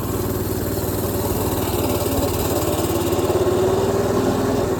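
Mini bike's Predator 212cc single-cylinder engine running steadily with its governor bypassed, its pitch and loudness creeping up slightly.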